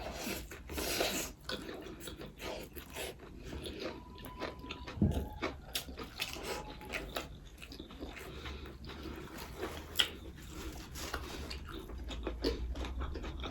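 Close-up eating sounds of someone biting and chewing a chicken roll, with many short wet mouth clicks.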